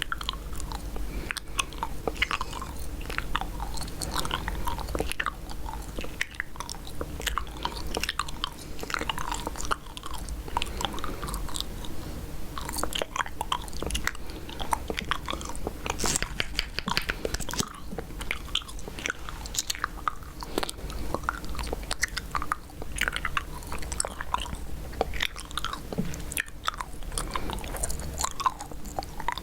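Close-miked chewing gum: wet, sticky chewing with irregular smacks and clicks of the mouth, over a low steady hum.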